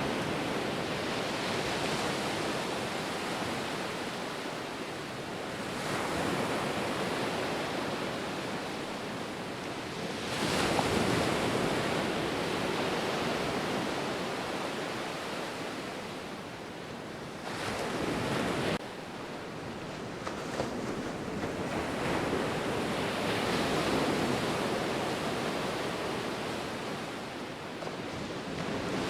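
Ocean surf: a steady wash of breaking waves that swells and eases every several seconds as each wave comes in. The level drops suddenly once, about two-thirds of the way through.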